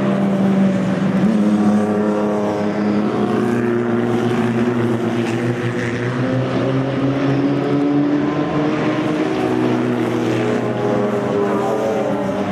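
Racing car engines with open exhausts running hard, several engine notes overlapping, one of them rising slowly and steadily in pitch through the middle as a car accelerates.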